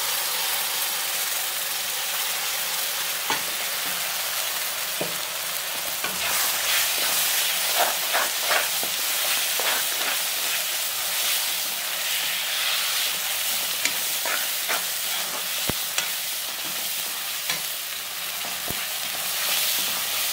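Ground masala paste sizzling in hot oil with onions in a wok, stirred with a steel slotted spoon. A steady frying hiss runs under it, and from about six seconds in the spoon's scrapes and taps against the pan come thick and fast.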